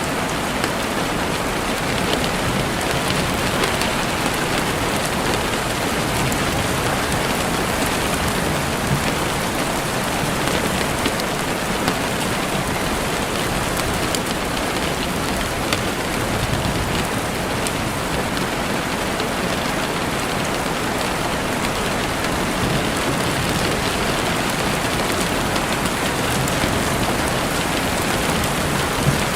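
Heavy rain falling steadily on a window: a dense, even hiss with many sharp drop ticks scattered through it.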